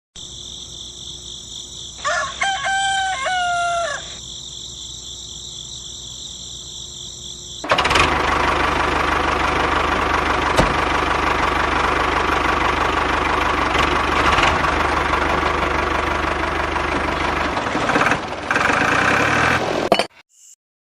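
A rooster crows once, about two seconds in, over steady high tones. About eight seconds in, a miniature diesel engine starts suddenly and runs loudly and steadily for about twelve seconds, then stops abruptly near the end.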